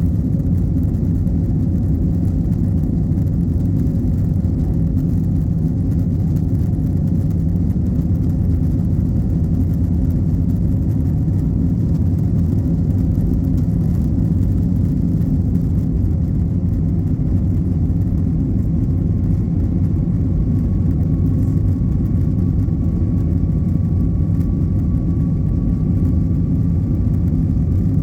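Airbus airliner's jet engines and airflow heard from inside the passenger cabin: a steady low rumble. A faint thin whine comes in about two-thirds of the way through and rises slightly in pitch.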